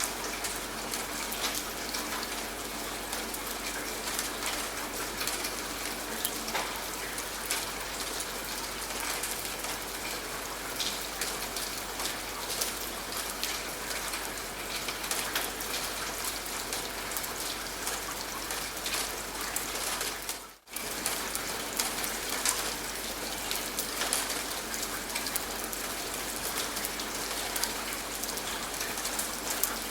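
Steady rain falling and pattering on a surface, with individual drops ticking through it. The sound cuts out for a split second about two-thirds of the way through, then resumes.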